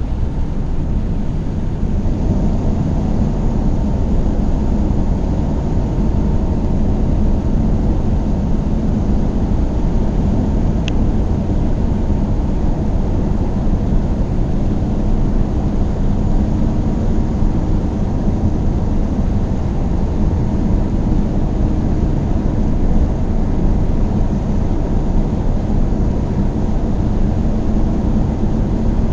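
Car driving at a steady speed: a constant rumble of engine and road noise, with one brief tick about eleven seconds in.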